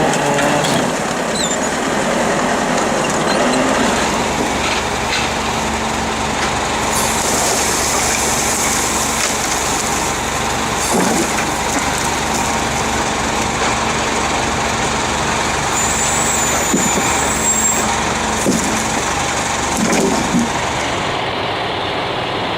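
An engine running steadily in a logging operation, with a deeper rumble and a steady low hum joining a few seconds in.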